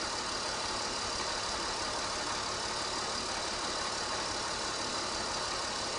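BMW E46's straight-six engine idling steadily at about 720 rpm.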